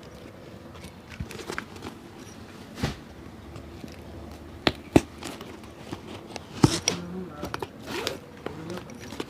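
Scattered sharp knocks and clicks, a handful spread over several seconds, over faint background voices.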